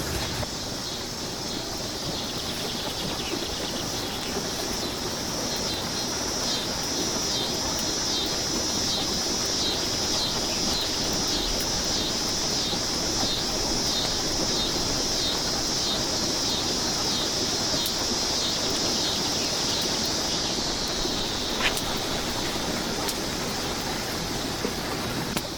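Steady rush of flowing creek water under an insect's high-pitched pulsing buzz, about two pulses a second, which swells in and then fades out a few seconds before the end.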